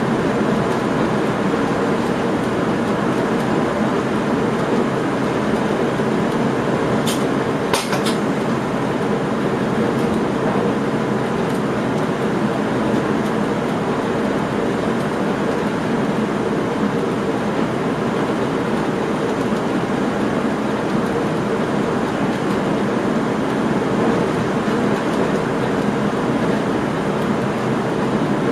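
Steady running noise of a passenger train heard from inside the driver's cab, with the rumble of wheels on rails. There are two brief high-pitched squeaks about seven seconds in.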